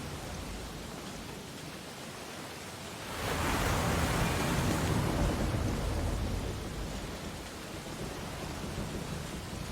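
Ocean waves washing on a beach: a steady surf hiss, with one wave breaking about three seconds in, swelling for a few seconds and then washing out.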